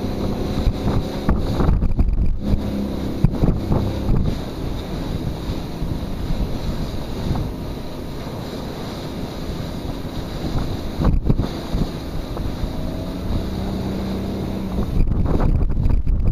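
Motorboat engine running steadily, with wind buffeting the microphone in gusts that grow stronger near the end.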